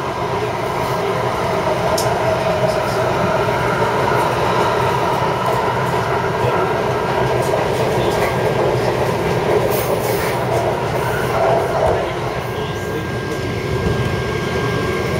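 Taipei Metro C371-type electric train running at speed, a steady rumble of wheels on rail with a faint steady whine above it.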